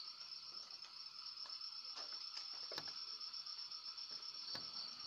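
Crickets chirring steadily as a night ambience, with a few faint clicks.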